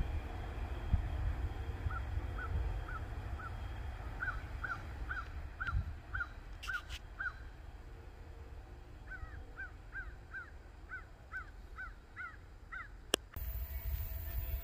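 A bird calling in short repeated notes, about two a second, in two long runs, over a low background rumble. Near the end comes a single sharp click.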